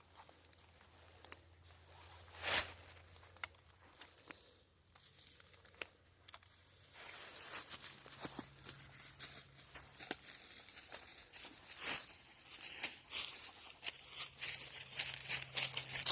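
Irregular rustling and crinkling from something being handled or pushed through. It is sparse at first, with one sharp snap about two and a half seconds in, then busier from about seven seconds on.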